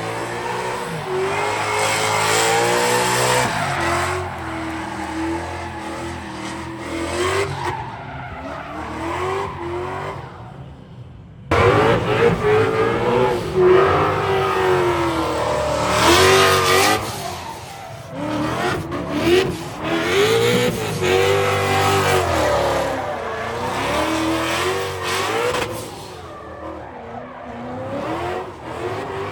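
Drift cars' engines revving up and down while the tires squeal and skid. About eleven seconds in the sound cuts suddenly to a louder stretch of the same revving and tire noise.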